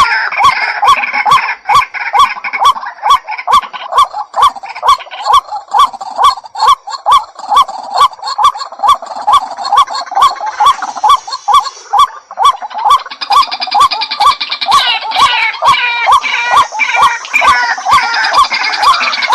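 White-breasted waterhen calling: a long, unbroken run of harsh, repeated notes, about three a second, with a busier, higher layer of calls joining in the second half.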